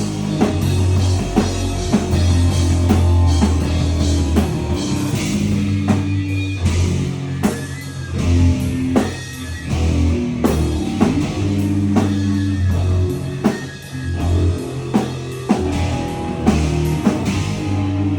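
Live rock band playing loud: distorted guitar and bass chords with a drum kit hitting hard throughout.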